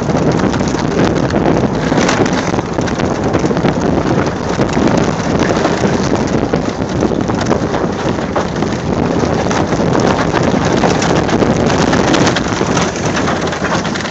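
Steady, loud wind buffeting the microphone over a continuous rumbling noise, with no break.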